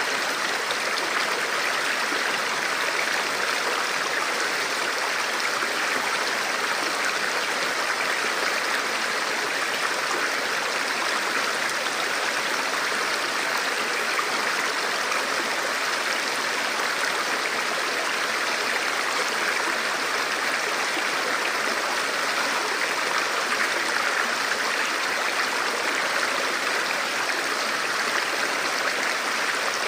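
A forest river or stream flowing steadily over rocks, a continuous even rush of water.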